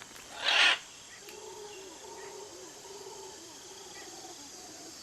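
A single harsh squawk from a great green macaw about half a second in, then an evening chorus of insects: a steady high hiss with a faint wavering low call running under it.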